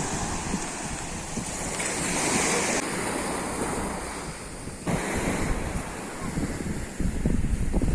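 Sea waves washing onto a beach, with wind buffeting the microphone in low rumbling gusts. The sound changes abruptly about three and five seconds in.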